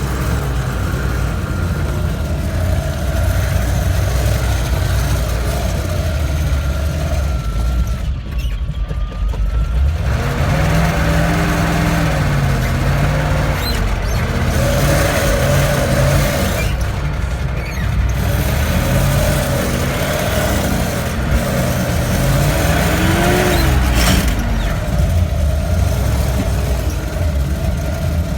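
GAZ-66 truck driving, with a heavy low engine rumble; from about a third of the way in, the engine's pitch rises and falls again and again as it revs and eases off.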